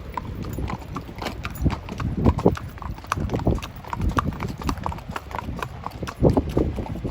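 Hooves of a Tennessee Walking Horse gelding clip-clopping on hard ground, several hoof strikes a second.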